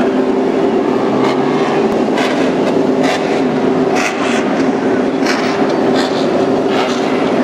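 Pack of MotoGP racing motorcycles' engines running at high revs, with a loud, steady high engine note and repeated sharper rasps over it.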